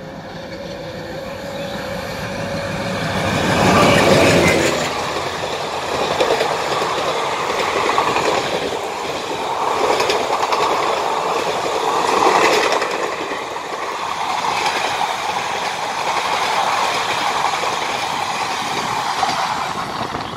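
ALCO diesel-electric locomotive hauling an express train at speed: its engine grows louder to a peak about four seconds in as it passes. Then the passenger coaches run by with a steady rail rumble that swells roughly every two seconds, falling away near the end.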